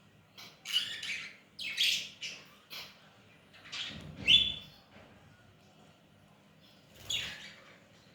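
Baby budgerigar chicks giving short, raspy begging calls while being hand-fed. There is a quick run of calls in the first few seconds and one more near the end.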